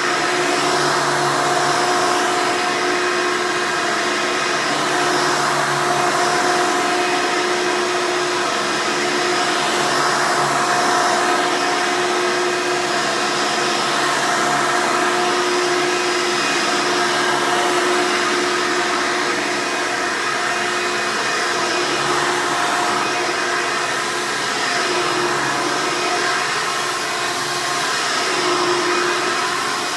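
Hoover Elite upright vacuum cleaner running with a steady motor whine over the rush of airflow: noisy but smooth-running.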